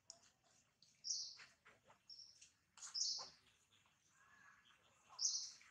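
Birds chirping: four short, high chirps about a second apart, with the last one the loudest.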